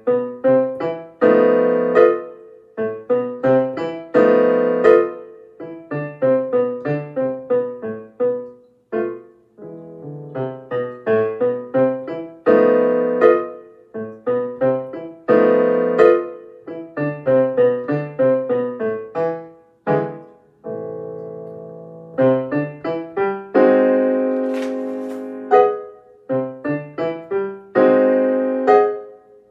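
Solo piano playing an elementary-level minor-key piece in short notes and chords, with a couple of longer held chords about two thirds of the way through.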